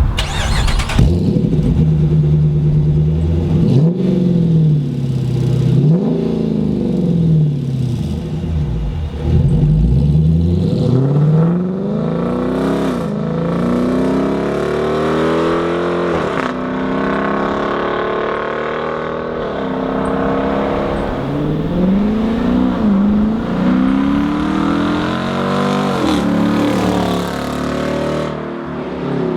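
Dodge Charger R/T 5.7 L Hemi V8 through a Solo Performance MR212-HJ stainless steel exhaust, with H-pipe, resonators and J-pipes. The engine is revved up and let fall back repeatedly, its pitch rising and dropping every couple of seconds.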